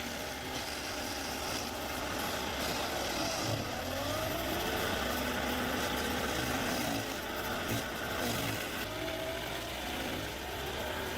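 Engine of a piece of heavy machinery running steadily, with faint whines wavering up and down in pitch partway through.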